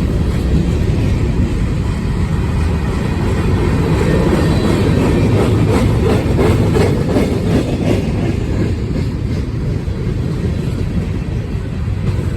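Freight train cars rolling past at close range: a steady heavy rumble of steel wheels on rail, with a run of clicking wheel clatter that is loudest in the middle and eases off toward the end.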